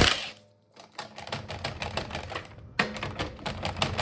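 Hand ratchet wrench clicking rapidly and unevenly as a wheel's lug nut is backed off.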